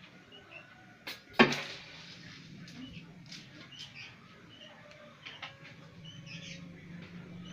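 Cats at play: a sharp knock about a second and a half in, then faint high squeaky calls over a low steady hum.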